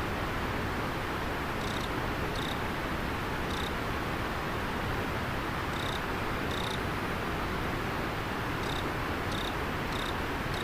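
Steady rushing of river water, with an insect giving short, high chirps, singly or in pairs, every second or two.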